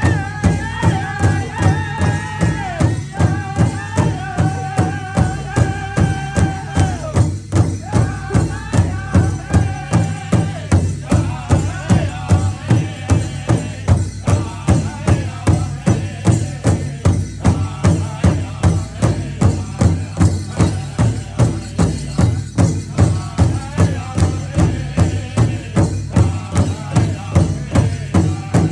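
Drum song: a drum beaten in a steady beat of about two strokes a second, with high held singing over it for roughly the first ten seconds, then the drum carrying on with fainter voice.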